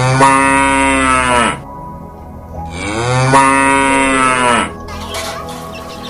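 A cow mooing twice: two long calls of nearly two seconds each, the second starting about two and a half seconds in. Each call's pitch rises and then drops away at the end.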